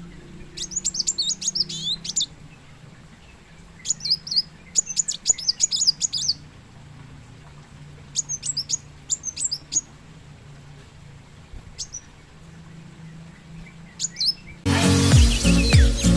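A sunbird (kolibri muncang / kolibri wulung) singing in three phrases of rapid, very high, twittering chirps a couple of seconds each, with a few single chirps after, over a low steady hum. Loud music comes in near the end.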